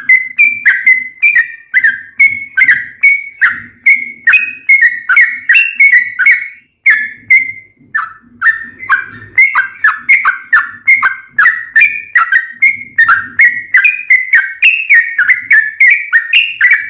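Yellow-vented bulbul (trucukan) singing a long, fast run of short chirping notes, several a second, with a brief pause about seven seconds in.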